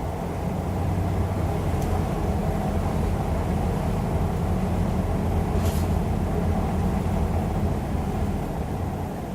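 Hyundai Aerocity 540 bus's diesel engine running with a steady low drone that swells about a second in and eases near the end. A short hiss of air sounds a little past halfway.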